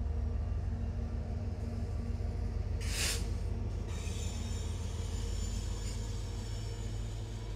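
Freight train led by Canadian Pacific and BNSF diesel locomotives passing, with a steady low engine rumble. About three seconds in there is a brief loud hissing burst, and after that a thin high-pitched squeal of wheels on rail.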